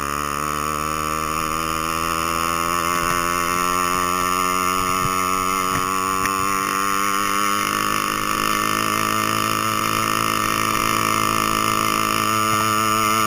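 An 80cc two-stroke bicycle engine kit running at a steady speed, a buzzing drone whose pitch wavers slightly. The pitch shifts a little about eight seconds in.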